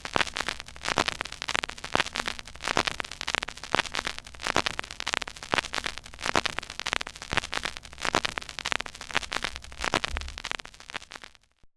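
Stylus tracking the silent groove of a 12-inch vinyl record at 33⅓ rpm: dense surface crackle and pops over a faint low rumble, fading out near the end.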